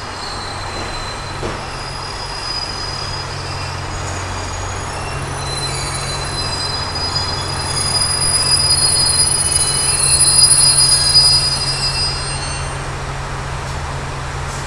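Train running by on the rails, with a steady low rumble and high thin wheel squeal setting in about five seconds in; it grows louder, peaks around ten seconds, then eases.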